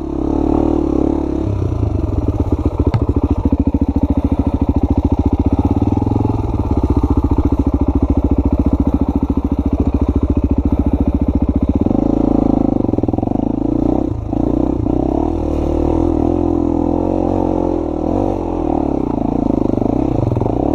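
Honda XR250's single-cylinder four-stroke dirt bike engine being ridden up a trail section, chugging at low revs with evenly spaced firing pulses, then running higher and smoother with a rising and falling note from about twelve seconds in.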